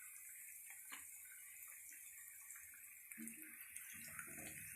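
Faint steady hiss with scattered small crackles and ticks: chicken pieces deep-frying in hot oil.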